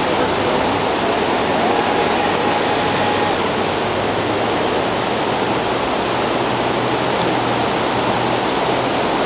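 Water rushing steadily over a dam, a loud even wash of noise. A faint high whine holds for about a second and a half shortly after the start.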